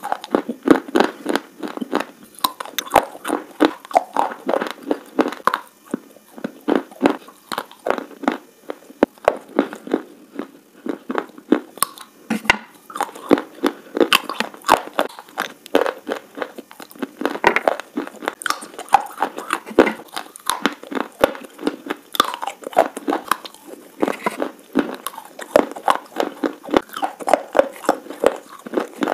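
Slate pencil sticks being bitten and chewed: a rapid, unbroken run of crisp crunches and gritty grinding, several a second.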